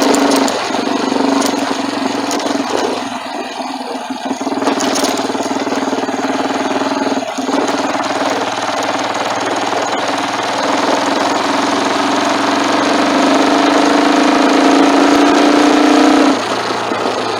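Motorcycle engine running under way, picked up by a phone on the handlebar mount, with wind rushing over it. The engine note eases off about half a second in, holds fairly steady, then drops again near the end.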